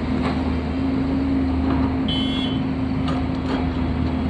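A machine's motor running at a steady, even hum, with one short high-pitched beep about two seconds in and a few faint clicks.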